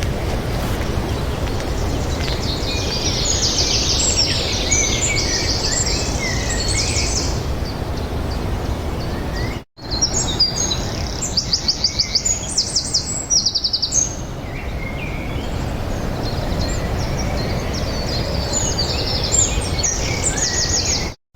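Songbirds singing in quick chirps and trills over a steady low rumble, with the sound cutting out for a moment about halfway through.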